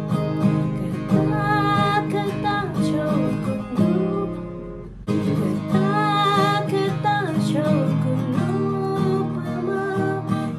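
Acoustic guitar strummed, with a voice singing along; the music breaks off abruptly and picks up again about five seconds in.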